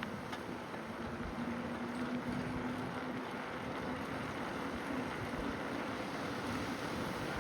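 Steady wind and rolling noise on the microphone of a moving bicycle. A faint low hum comes in about a second in and fades after a few seconds.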